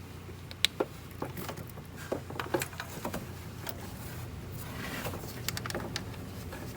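Scattered light clicks and knocks as a new spark plug is handled with a socket and extension and fitted into the spark plug well, over a steady low hum.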